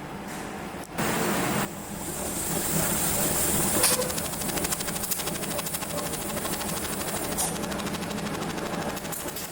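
Laser welding machine running with a steady hum. A short loud burst of noise comes about a second in, and from about four seconds in there is a rapid, even ticking.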